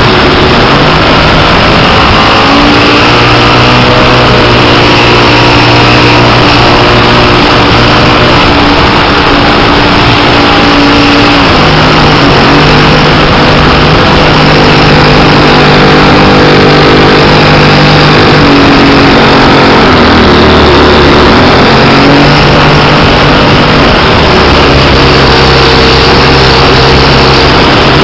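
The engine of a 1/5-scale Piper Cub radio-controlled model aircraft running in flight, loud, over a steady rush of wind on the strut-mounted microphone. The engine note steps up and down a few times as the throttle changes.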